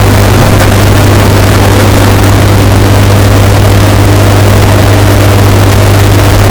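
Washing machine running, a steady unbroken churn with a strong low drone, bass-boosted and distorted so it sits at full loudness throughout.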